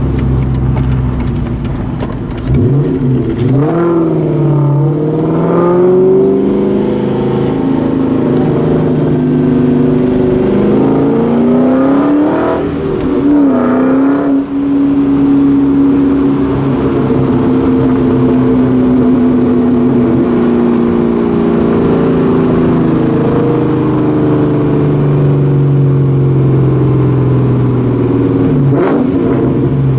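2004 Mustang SVT Cobra's supercharged 4.6-litre V8 through Borla Stinger mufflers and an off-road X-pipe. The revs rise and fall several times in the first half, then hold steady for about fifteen seconds before changing again near the end.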